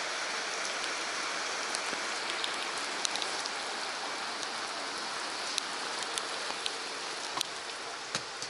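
Heavy typhoon rain heard from inside a highway bus: a steady hiss with scattered sharp taps of drops.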